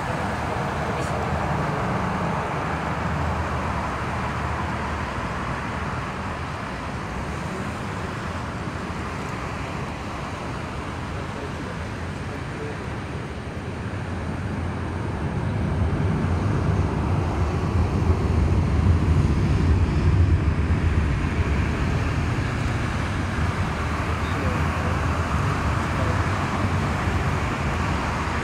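Jet engine noise from a Boeing 747-400 taking off: a steady, noisy rumble with no clear tone, growing louder about fifteen seconds in and staying up.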